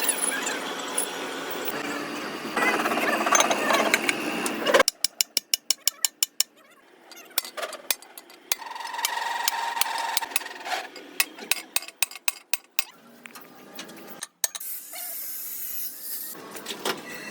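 Workshop tool work on metal: a steady rasping scrape for about five seconds, then a quick run of sharp taps, followed by scattered clicks and stretches of scraping.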